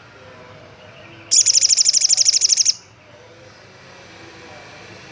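Olive-backed sunbird giving one loud, rapid, high trill of about a second and a half, starting about a second in.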